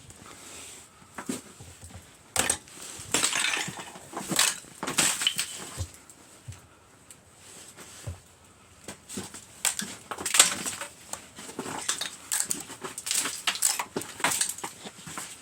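Icicles being knocked down, the ice cracking, breaking and shattering in irregular bursts of crunches and glassy clinks.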